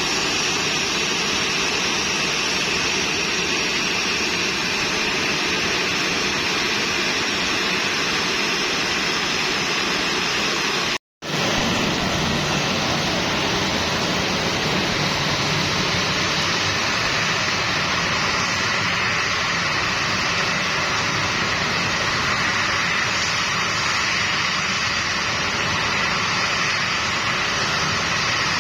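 Jet airliner engines running: a loud, steady rush of noise with a high whine in it. It breaks off for an instant about eleven seconds in and resumes with more low rumble.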